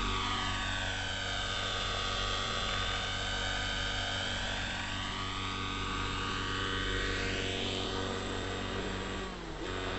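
Neo Caliber 50 RC helicopter in flight: its glow-fuel engine and spinning rotors run steadily at high rotor speed, the pitch sweeping down and back up over several seconds as it manoeuvres, with a brief dip in level and pitch near the end.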